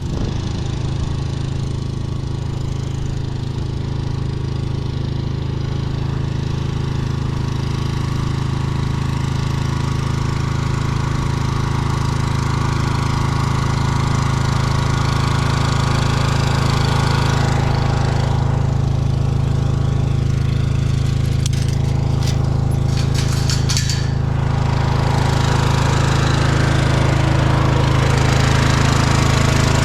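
Small engine running steadily with an even low drone and a fast pulse, growing slightly louder, with a stretch of rattling about two-thirds of the way through.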